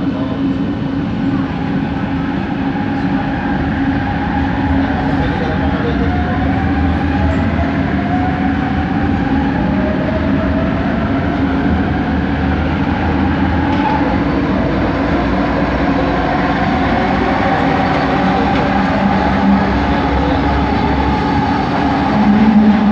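Kelana Jaya Line metro train motor running under the carriage, heard from inside the car: a steady rumble with a whining motor note that glides up in pitch several times through the middle, the line's characteristic weird motor noise.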